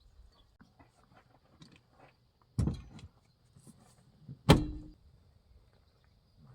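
Two heavy thuds about two seconds apart, the second the louder, as a vehicle's doors are shut, with light knocks and rustling of gear between them.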